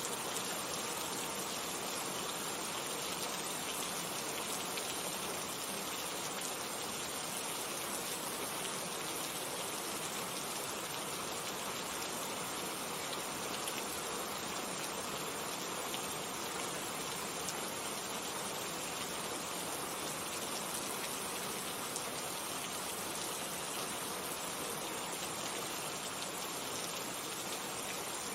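Steady rain falling, an even continuous hiss of many drops with no change in intensity.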